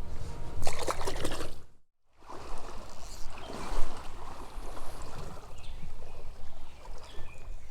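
Creek water running, with a burst of splashing about half a second in; the sound cuts out completely for a moment just before two seconds in, then the steady water noise resumes.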